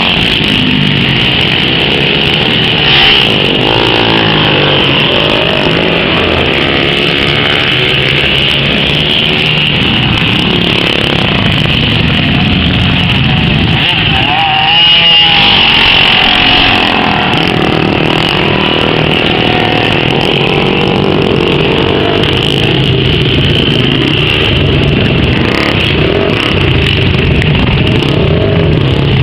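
Several racing engines at full throttle lapping a speedway during hot laps, their pitch rising and falling as they pass, with one louder close pass about halfway through.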